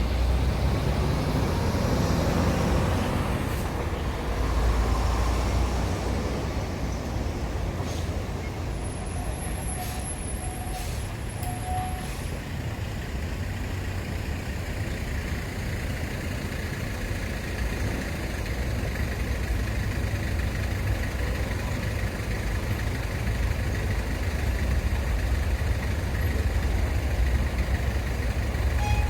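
Heavy diesel truck engine running with a steady low rumble, with a few faint short beeps about ten seconds in.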